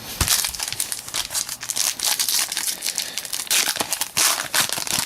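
Foil trading-card pack wrapper crinkling in quick, irregular rustles as it is handled and pulled open.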